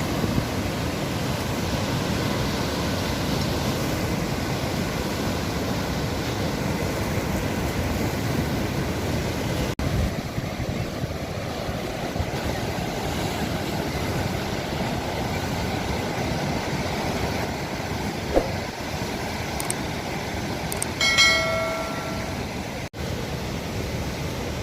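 Sea waves washing on the shore in a steady rush, with some wind on the microphone. About three-quarters of the way through, a short pitched tone sounds briefly over it.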